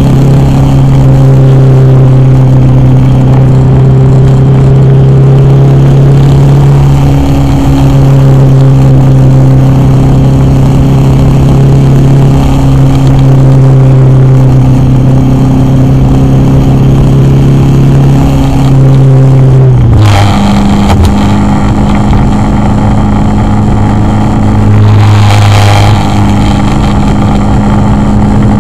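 Car engine drone and road noise picked up from inside a moving car, a steady low engine note. About twenty seconds in the engine note drops suddenly to a lower steady pitch, with a short burst of noise then and another a few seconds later.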